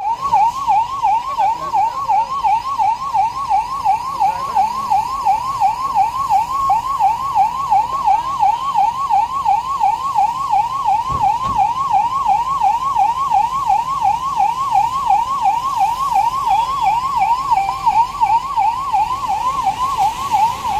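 Electronic siren sounding a fast, repeating rising sweep, about three sweeps a second, starting abruptly: the alert of a security mock drill.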